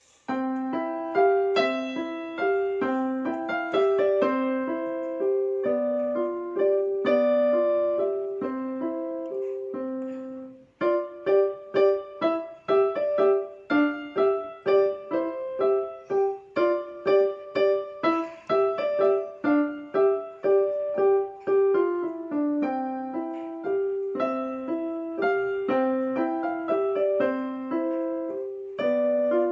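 A simple piece played on a Yamaha piano: a single melody line over a few lower notes. The playing breaks off briefly about ten seconds in, then goes on with a passage of short, detached notes before the smoother playing returns.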